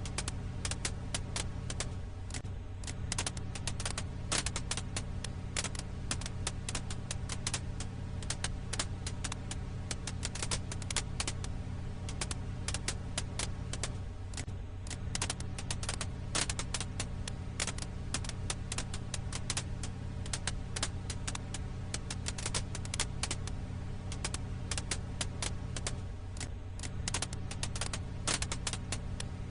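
Firewood crackle: dense, irregular sharp pops and snaps over a steady low hum.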